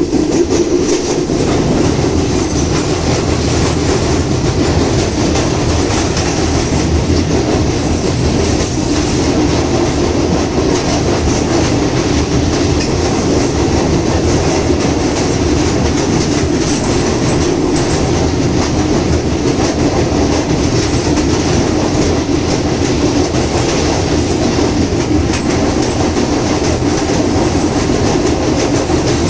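Train running over a steel truss railway bridge, heard from aboard: a steady, loud rumble of wheels on the rails and the bridge's steel girders.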